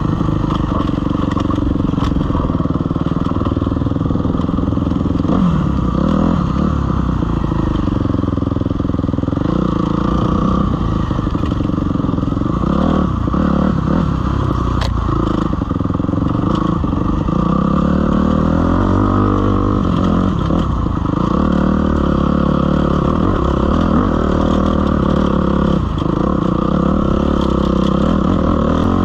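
Suzuki RM-Z250's single-cylinder four-stroke dirt bike engine running on a trail ride, its pitch rising and falling with the throttle. A few brief knocks come through as the bike moves over rough ground.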